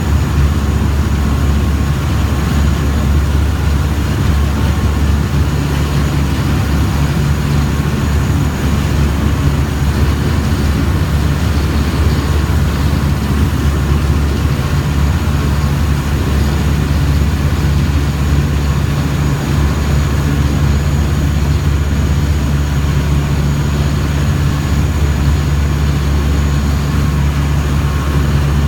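A river boat's engine running steadily, a constant low hum with water and hull noise over it.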